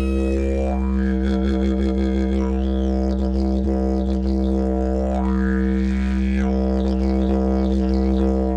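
Didgeridoo music: one steady low drone, with its overtones sweeping up and down.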